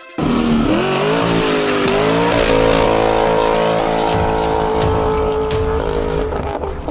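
2018 Ford Raptor's 3.5-litre twin-turbo EcoBoost V6 through a Kinney's Street Demon performance exhaust, revving up sharply and then held at steady high revs for a few seconds before easing off near the end.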